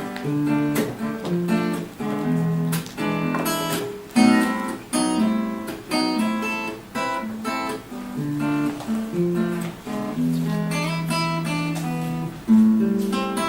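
Acoustic guitar strummed in chords: the instrumental ending of the song after the last sung chorus.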